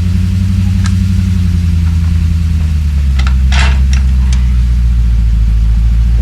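BMW F20's 1.6-litre N13B16 turbocharged four-cylinder petrol engine idling steadily just after starting. A few short clicks and a brief hiss sound over it around the middle.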